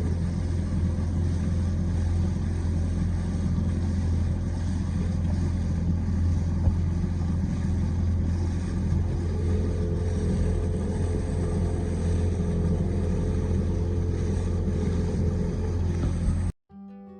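A boat's engine running steadily at an even speed with a strong low hum. It cuts off abruptly near the end and is followed by acoustic guitar music.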